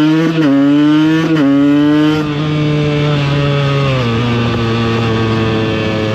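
KTM EXC 125's single-cylinder two-stroke engine pulling hard, its pitch climbing and breaking briefly twice in the first second and a half as it is shifted up. It then holds a steady pitch, which drops a step about four seconds in.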